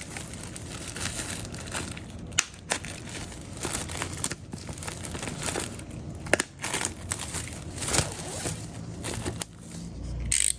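Plastic and paper vinyl-record packaging being handled: irregular crinkling and rustling with scattered sharp clicks and taps.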